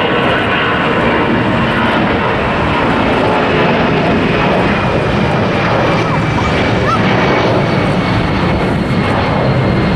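Jet airliner's engines at takeoff thrust: loud, steady engine noise with a faint high whine running through it.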